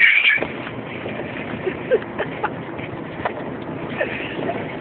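Road noise inside a 1989 Toyota Corolla GTS driving over a rough, rocky road, with many small knocks and rattles from the cabin at irregular intervals.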